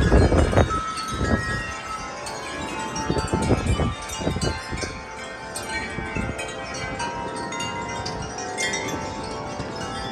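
Wind chimes ringing continuously in strong gusty wind, many overlapping tones held and struck again. Wind buffets the microphone in low rumbling gusts, heaviest in the first second and again around the middle, then easing.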